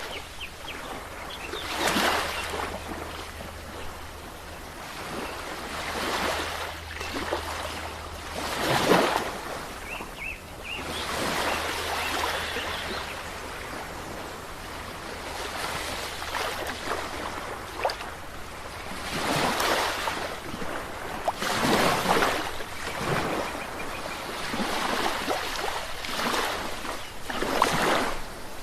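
Sea waves breaking on a shore, the surf washing in and out steadily, with a louder breaker surging up every few seconds.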